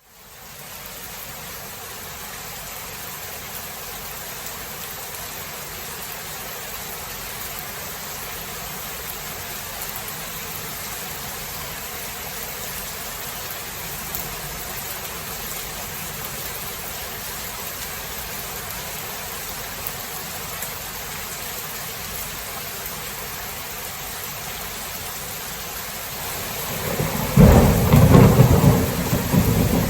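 Steady rain hissing, fading in at the start. Near the end a loud clap of thunder breaks in and rumbles on.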